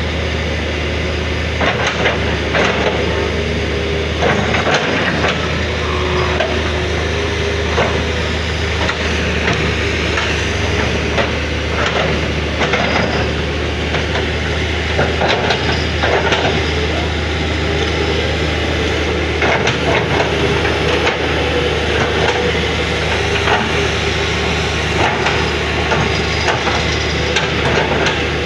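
Long-reach excavator working: its diesel engine runs steadily underneath while the boom, arm and bucket give off irregular clanks and knocks as it digs.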